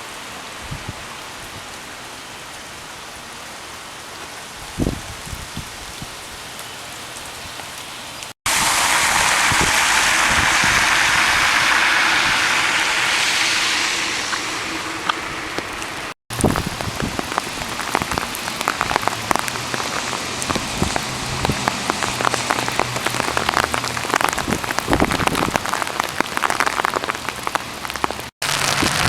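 Steady rain, in several cut-together shots. It starts as an even patter with a single thump about five seconds in. About eight seconds in it cuts to a much louder rushing downpour that eases off, then to rain pattering in dense drop ticks on a hard surface.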